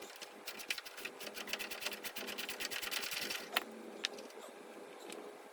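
Hand socket ratchet clicking rapidly as a stubborn transmission mount bolt is turned out; the fast clicking stops about three and a half seconds in, followed by two single clicks.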